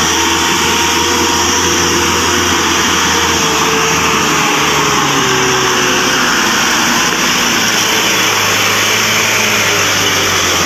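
Isuzu Elf dump truck's diesel engine labouring under load on an uphill climb, its pitch slowly sinking over a few seconds as the engine loses revs. The truck is running out of power on the incline.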